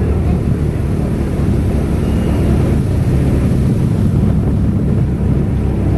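Airboat's engine and air propeller running steadily, a loud even drone.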